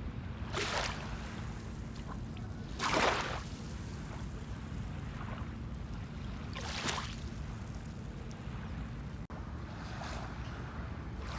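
Small waves breaking and washing up on a sandy beach, coming in as hissing surges every few seconds, the strongest three about 0.5, 3 and 7 seconds in. A steady low rumble runs underneath.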